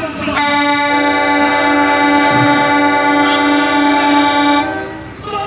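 Truck's multi-trumpet air horn (train-style horn) sounding one long, steady chord of several tones for about four seconds, then cutting off near the end.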